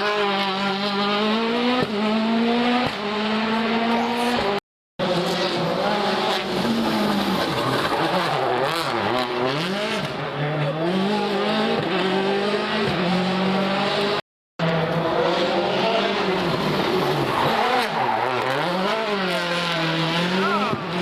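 Rally cars' engines revving hard, rising and falling in pitch through gear changes as they drive a special stage. It comes as three separate passes, split by two short, abrupt silences.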